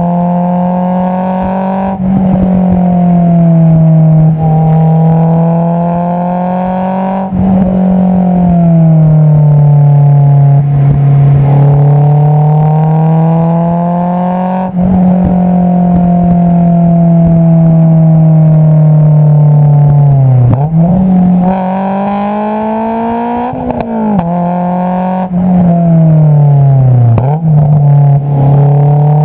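Honda S2000's 2.2-litre four-cylinder engine heard at the tailpipe through an Invidia Q300 cat-back exhaust, its note rising and falling with throttle while driving. Near the end the revs drop sharply and jump back up three times in quick gear changes.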